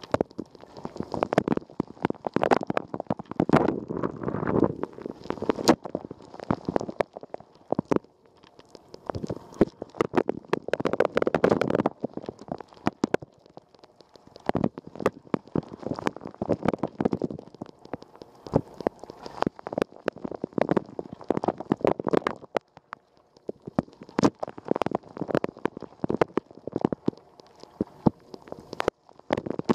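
Water spraying and splashing inside a running Rosenlew dishwasher, heard from inside the tub: a dense patter of sharp drops and splashes that swells and fades in waves every five or six seconds.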